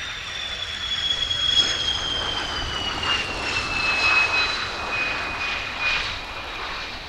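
Jet aircraft flying past, its engine whine sliding steadily down in pitch over a rushing noise that swells and then fades.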